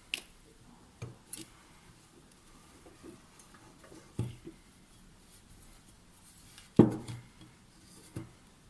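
Scattered clinks and knocks of small metal bicycle hub parts and tools being handled while the rear hub's bearing cup is cleaned of dirt and old grease. There are about six separate knocks, and the loudest comes about two-thirds of the way through.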